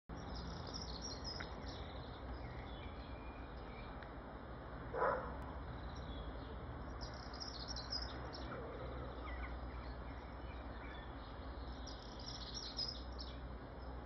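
Small songbirds chirping, with clusters of short, high calls that come and go, over a steady low rumble. One louder, lower sound about five seconds in.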